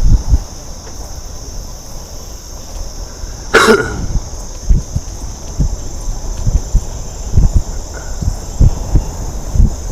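Steady high-pitched chorus of insects singing, with wind rumbling on the microphone of a moving bike. A single short loud sound cuts in about three and a half seconds in.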